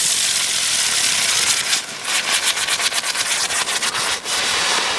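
Ground fountain firework spraying sparks with a loud steady hiss. About two seconds in, rapid crackling pops join the hiss, and both stop near the end.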